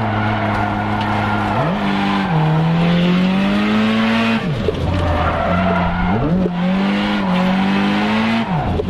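Nissan Silvia S15 drift car's engine revving hard while drifting, its pitch rising and falling and dropping sharply several times, with tyres squealing and skidding. The car's clutch is slipping.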